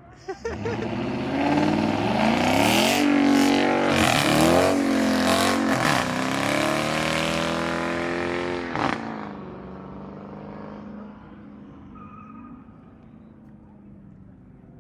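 Car engine revving hard during a burnout: the pitch rises and falls repeatedly under a loud, noisy hiss of spinning tyres. About nine seconds in it drops off to a quieter engine sound.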